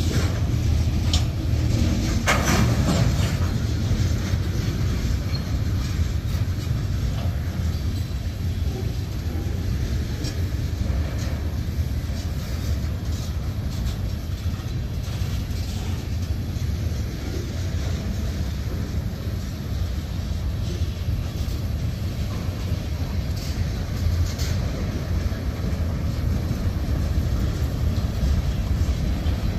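Freight cars of a passing manifest train rolling by: a steady low rumble of steel wheels on rail, with faint clicks over the joints. A short louder rushing noise comes about two seconds in.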